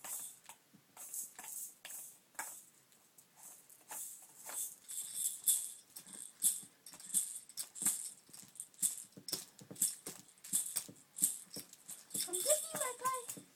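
Irregular shaking and rattling of a baby's rattle toy, in quick uneven bursts that grow busier after about four seconds. A short pitched vocal sound comes near the end.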